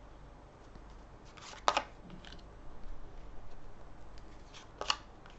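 Lenormand cards being handled: faint rustling, with two sharp card snaps, one about a second and a half in and one near the end.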